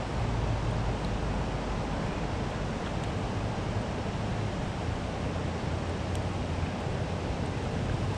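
Steady, loud rushing noise of fast-flowing creek water, with a low even rumble underneath.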